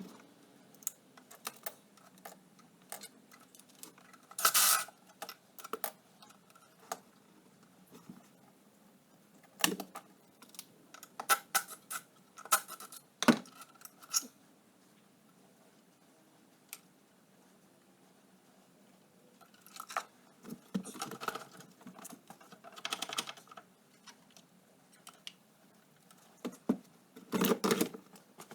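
Hand tools and loose metal parts clinking and clattering as the Suzuki LT80 ATV is taken apart: scattered clicks and rattles with several short bursts of clatter.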